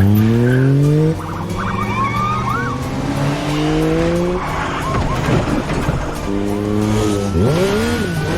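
Film chase sound mix of vehicle engines revving on a highway. The loudest engine drops in pitch, climbs again, and cuts off about a second in. Short tyre squeals follow, and a siren rises near the end, over background music.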